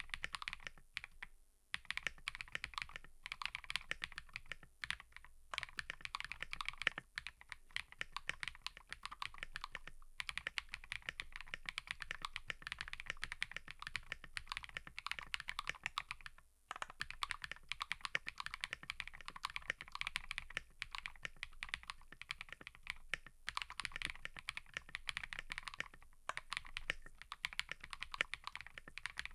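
Fast, continuous typing on a mechanical keyboard, the keys clacking in quick runs with brief pauses about a second and a half in and just past halfway.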